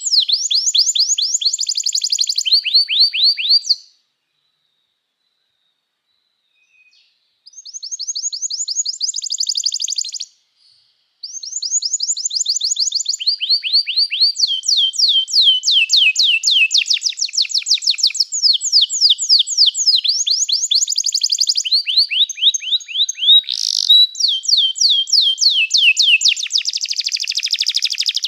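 Domestic canary singing in fast, high trills of rapidly repeated notes, one trill flowing into the next at changing pitch and speed. The song breaks off for about three seconds a few seconds in, then runs on almost without pause.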